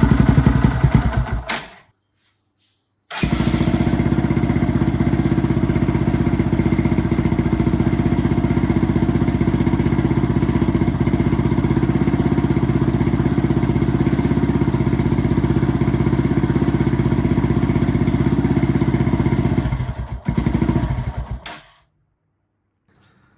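2007 Yamaha TTR230's single-cylinder four-stroke engine running, then idling steadily for about seventeen seconds after a brief gap, with the starter clutch freshly replaced. It stops about twenty seconds in, runs briefly once more, then cuts off.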